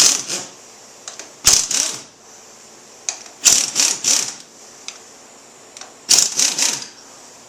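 Hand ratchet wrench ratcheting in four short bursts of rapid clicks, working the triple-clamp pinch bolts to free a motorcycle fork tube.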